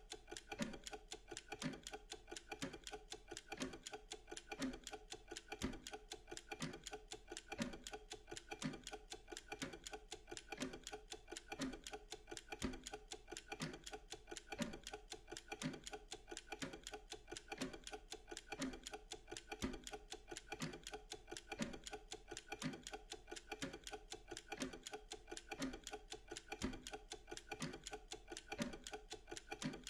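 Clock ticking steadily and evenly, with a lower tick recurring about once a second.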